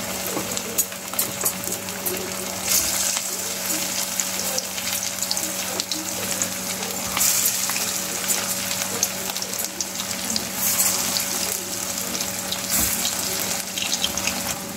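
Marinated chicken kebab pieces deep-frying in hot oil in a kadai: a steady sizzle full of small crackling pops, swelling louder for a moment several times.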